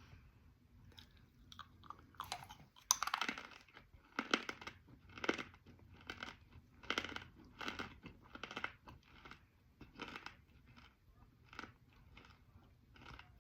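Close-up chewing of a crunchy baked clay pot piece stuffed with chalk, chalk dust and crumbs: a sharp crunch about three seconds in, then steady crisp crunches about once or twice a second.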